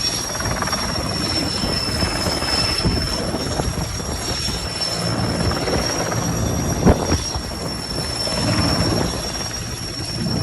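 Firefighting helicopter running close by: steady rotor and engine noise with a constant high-pitched whine over it. A single sharp click about seven seconds in stands out as the loudest moment.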